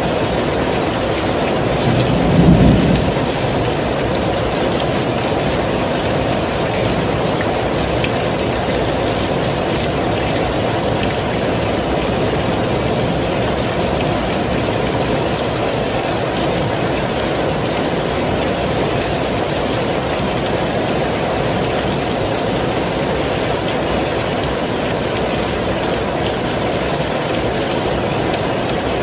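Steady heavy rainfall, an even wash of noise, with a brief low rumble about two and a half seconds in.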